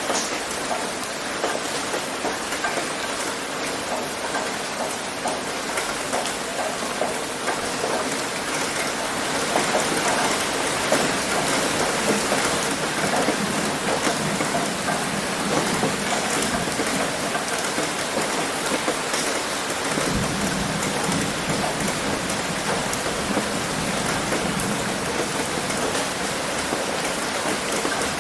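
Heavy rain hitting a roof: a dense, steady patter of many drops, growing a little louder partway through, with a low rumble joining in about two-thirds of the way along.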